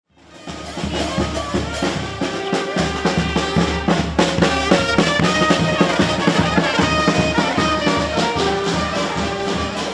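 Brass band music: trumpets and trombones playing a tune over a steady pulsing bass beat, swelling up within the first half second.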